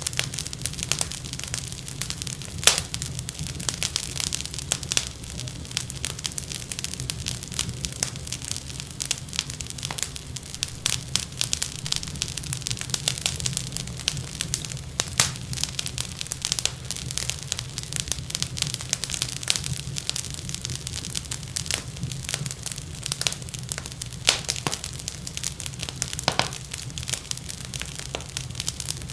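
Wood fire in a fireplace crackling: dense, irregular snaps and pops over a steady low rumble of the flames.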